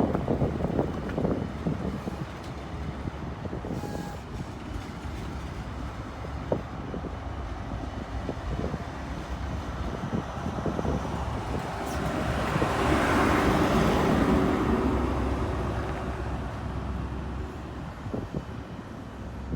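High Speed Train power car's diesel engine running with a steady low rumble, swelling to its loudest about two-thirds of the way through, then fading.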